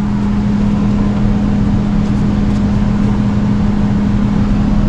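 Air handler's indoor blower running: a steady hum on one constant low tone over an even rush of moving air.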